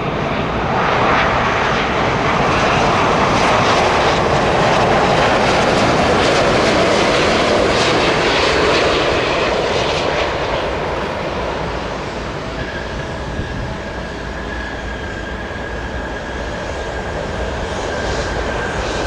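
Airbus A330-900's Rolls-Royce Trent 7000 jet engines passing close on final approach: a broad jet rush that swells over the first few seconds, holds, then slowly eases off, with a steady whine joining about two-thirds of the way through.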